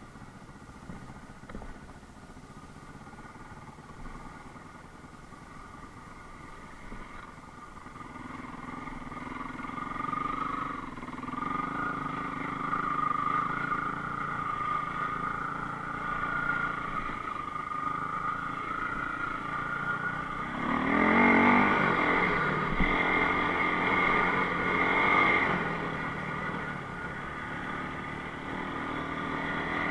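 Enduro motorcycle engine running, picking up from about eight seconds in and revving hardest for several seconds about twenty seconds in before easing off again.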